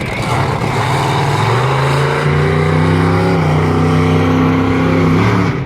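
Monster truck engine revving hard as the truck runs in for a jump: its pitch climbs about two seconds in, holds high, then drops just before the end.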